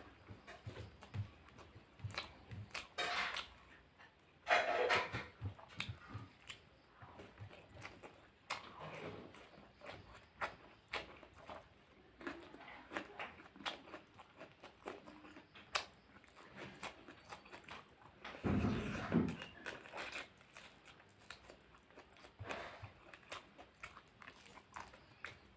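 A person eating close to the microphone: many quick, wet chewing and lip-smacking clicks, with a few louder mouthfuls, one of them about three-quarters of the way through.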